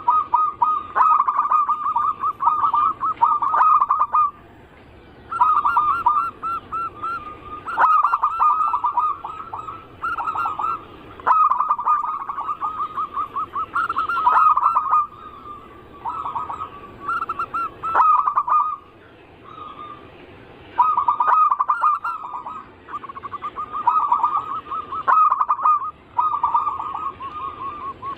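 Zebra doves cooing: rapid, rippling pulsed phrases of one to three seconds each, repeated again and again with short pauses between.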